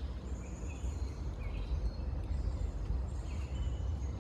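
Wind rumbling on the microphone, with faint, short, high bird chirps and whistles over it now and then.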